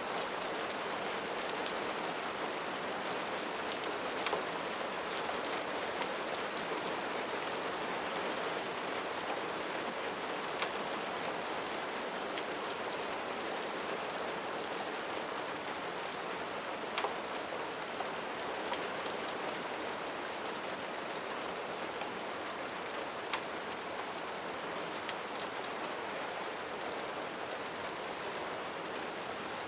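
Steady rain falling, an even hiss with a few sharp single clicks every several seconds.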